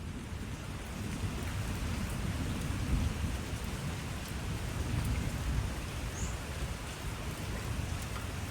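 Steady rain falling, with a low rumble underneath that swells a few times.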